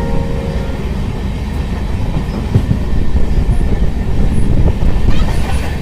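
Moving passenger train heard from on board: a steady rumble of wheels and carriages on the track.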